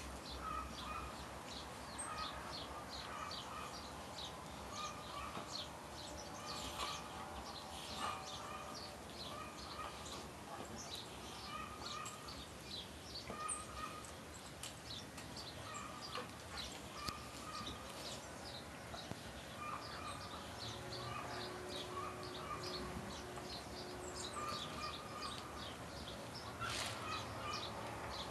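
Birds chirping, a steady run of short, high chirps repeating a couple of times a second, with a recurring lower call.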